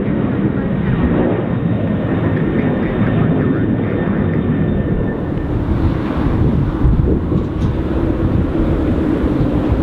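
Jet airliner's engines at takeoff power: a loud, steady, dense rumble with a faint high whine that fades about halfway through.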